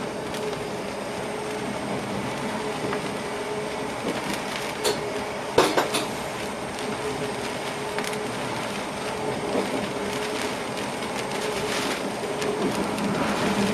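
Passenger train running, heard inside the driver's cab: a steady rolling noise with a held hum, and a few sharp clacks from the wheels over the rails about halfway through.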